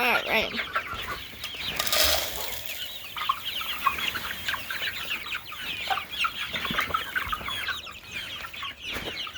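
A flock of young chickens cheeping and clucking all at once over their feed, many short high calls overlapping throughout. A brief rustle or scrape sounds about two seconds in.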